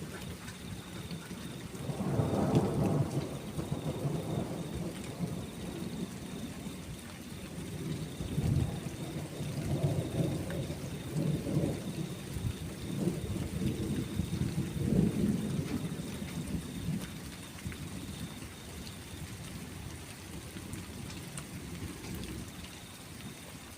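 Rolling thunder rumbling in several long swells over steady rain, fading out in the last few seconds while the rain goes on.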